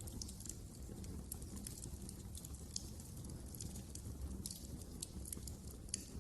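Wood fire crackling in a fireplace: a steady low rumble of burning with frequent small snaps and pops, one sharper pop near the end.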